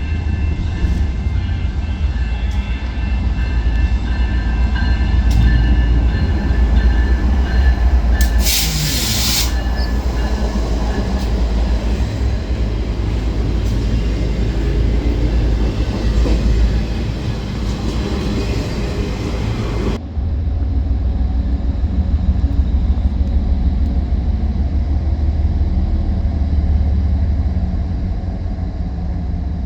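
Train passing close by with a continuous heavy low rumble of rail cars rolling on the track, with faint high thin tones in the first part. A short loud burst of hiss comes about nine seconds in.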